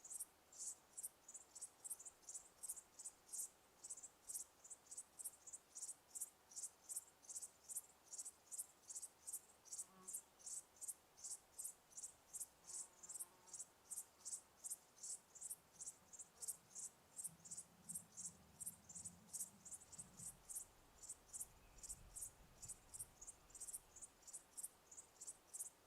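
Insects chirping steadily: short, high-pitched chirps, about three a second, without pause.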